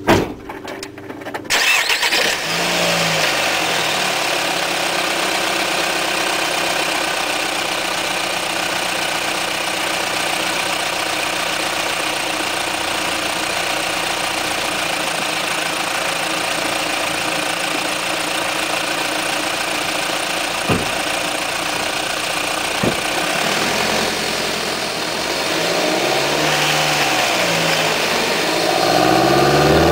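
2006 Nissan Sentra SE-R Spec V's 2.5-litre four-cylinder engine starting, catching about a second and a half in, then idling steadily with its intake sound. Near the end the revs rise and fall a few times in light blips.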